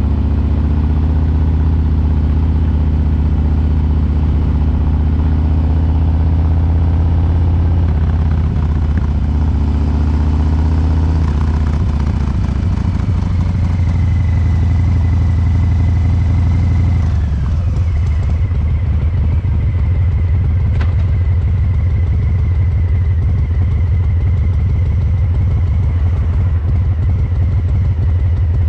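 Harley-Davidson Breakout 114's Milwaukee-Eight 114 V-twin through COBRA Neighbor Hater slip-on mufflers. It runs at a steady speed, then drops to idle a little past halfway. From there it lopes in the tuned three-beat rhythm.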